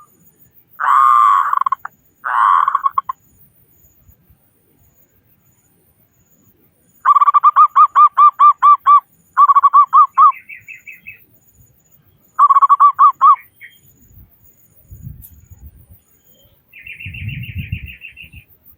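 Zebra doves (perkutut) cooing: two long coos, then three phrases of quick staccato coo notes repeated about five times a second. A higher, faster trill comes twice, and a faint low rumble sounds near the end.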